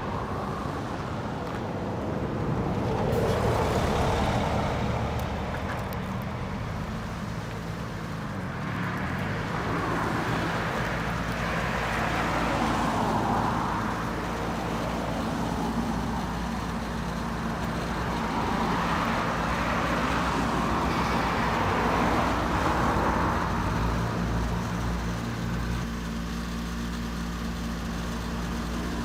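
A 1992 Mitsubishi Minicab's 657cc inline three-cylinder engine running, its sound swelling and falling back several times.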